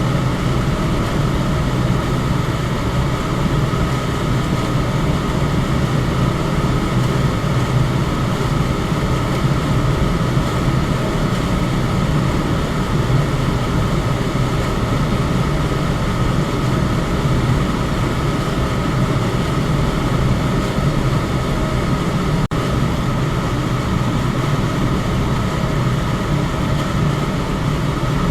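Electric fan running steadily: an even whooshing noise with a low hum underneath and no change in speed. A split-second dropout comes about four-fifths of the way through.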